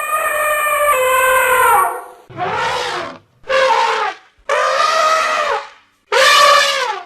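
An animal calling over and over: one long call of about two seconds, then four shorter calls of about a second each with short gaps between, several dropping in pitch at the end.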